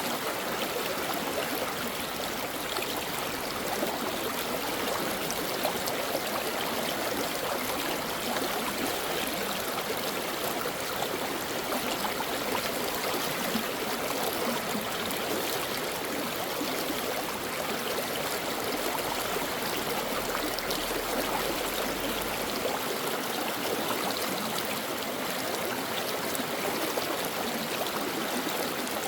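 A stream of water flowing and babbling over rocks, steady and even.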